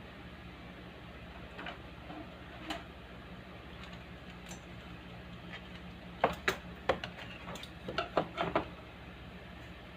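Speaker giving off a steady low mains hum, the fault being fixed. A quick run of sharp clicks and taps comes between about six and nine seconds in.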